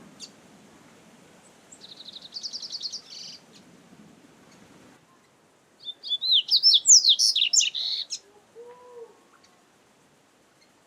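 Double-collared seedeater (coleiro) singing: a fast trill of quickly repeated high notes about two seconds in, then a louder phrase of quick rising and falling notes a few seconds later.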